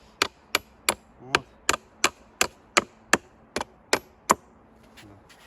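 Hammer blows on a wooden board, about three a second and some doubled, knocking old nails out of the board. The blows stop a little over four seconds in.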